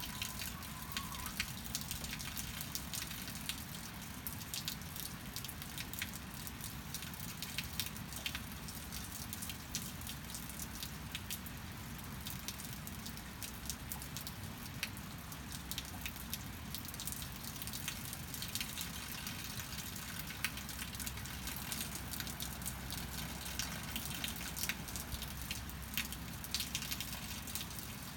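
Steady rain falling, with many separate drops hitting close surfaces as sharp little ticks over an even hiss.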